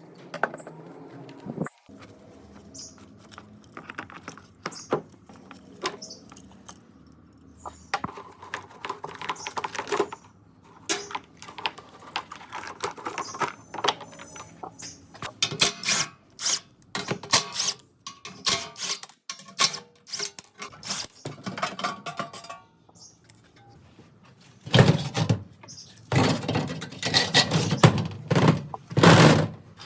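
Irregular clinks, taps and knocks of metal tools and parts being handled, with a louder run of clattering strokes near the end.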